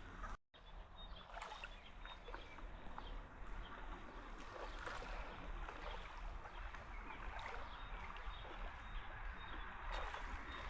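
Sea water splashing and lapping, a steady wash with many small crackling splashes; the sound cuts out for a moment about half a second in.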